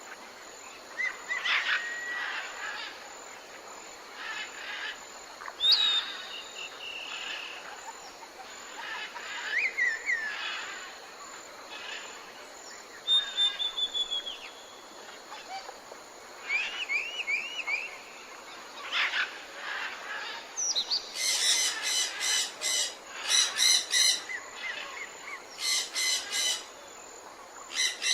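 Birds chirping and calling over a faint steady background hiss: scattered short chirps and whistled glides, then in the last third several loud bursts of rapid trilled calls in a row.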